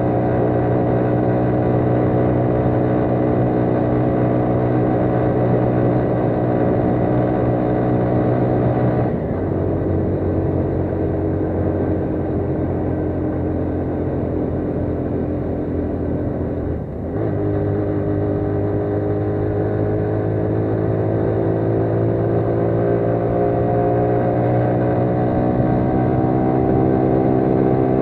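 AKT CR5 180 motorcycle's single-cylinder four-stroke engine pulling hard up a steep hill under load. Its note drops slightly about a third of the way in, breaks briefly about two-thirds through, then rises steadily as the bike gathers speed.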